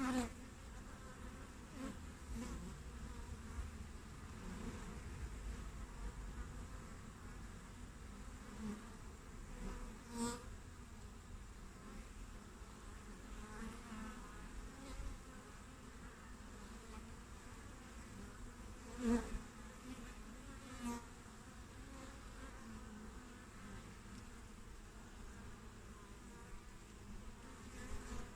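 Honey bees buzzing steadily at a hive entrance, with single bees flying close past and buzzing louder for a moment now and then, most strongly about two-thirds of the way through.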